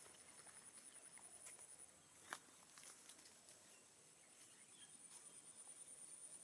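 Faint, very high-pitched rapid trill, heard for about two seconds at the start and again near the end, with a few soft clicks between.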